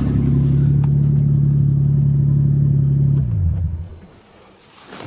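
1984 Toyota Cressida's engine running steadily, then switched off about three seconds in, its note dropping and dying away within a second.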